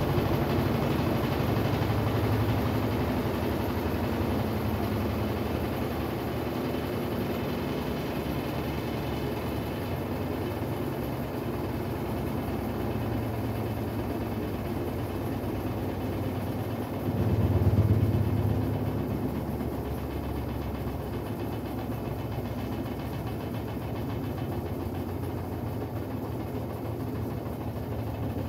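Brastemp Sexto Sentido 8 kg washing machine running: a steady low motor hum and rumble that swells briefly about two-thirds of the way through.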